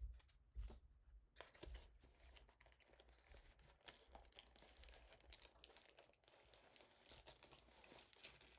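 Faint rustling and crinkling of packaging as a toy box is opened, with scattered small clicks.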